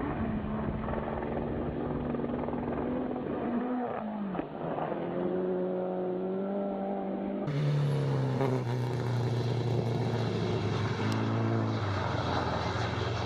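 Rally car engines running hard, each holding a steady note. The first drops in pitch about four seconds in. About halfway through it cuts to another car's engine note, which steps down in pitch near the end.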